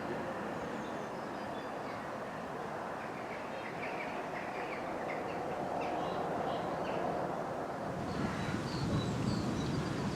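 A train running along the line, a steady rolling noise, with small birds chirping over it. A low rumble swells over the last two seconds.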